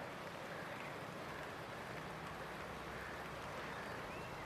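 Swollen flood river rushing past, a steady even noise.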